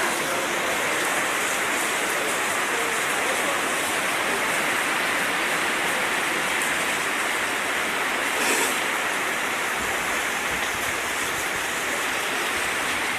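Heavy, steady downpour of thunderstorm rain, an even rushing hiss, with a brief louder swell about eight and a half seconds in.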